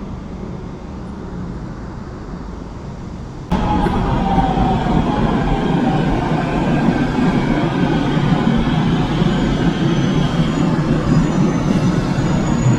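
Subway train running, a loud steady rumble with a whine falling in pitch as the train slows. About three and a half seconds in, the sound jumps suddenly from a quieter hum to this rumble.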